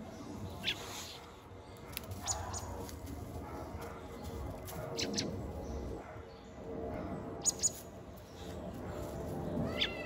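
Short, high bird chirps, single or in a quick pair, about five times, over soft rustling in dry leaf litter.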